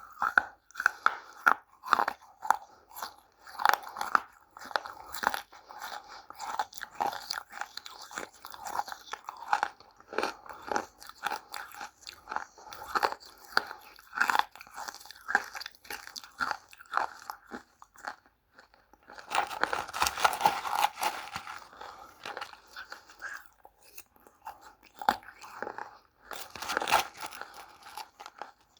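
Biting and chewing dry, crunchy clay (multani mitti and red mitti): a rapid run of sharp crunches, with two longer stretches of dense crumbling crunch, one about two-thirds of the way in and one near the end.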